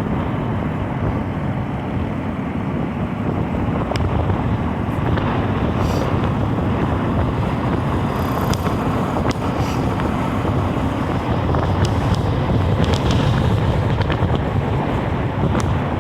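Wind buffeting the microphone over a steady, low vehicle rumble, with no clear engine note.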